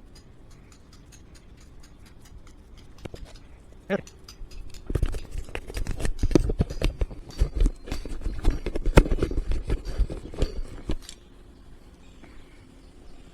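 Restless sled dogs in harness: a dense run of claw clicks, scrabbling and harness clatter from about five seconds in until near the end, after light ticking and one short whine about four seconds in.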